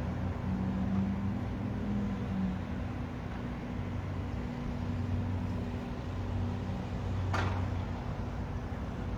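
Steady low hum of engine machinery, which fits the construction work going on at the park, with held low drones. About seven seconds in there is one brief, sharp noise.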